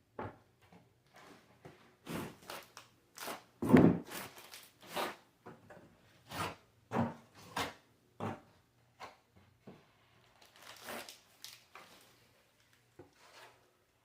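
Hand tools working on drywall: irregular scrapes and knocks, with the loudest knock about four seconds in.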